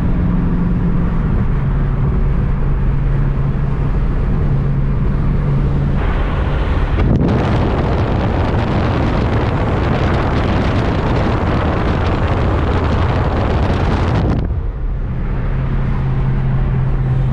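Car engine droning steadily while driving, its note stepping down about a second in. For about seven seconds in the middle a loud rush of wind noise covers it, then cuts off suddenly.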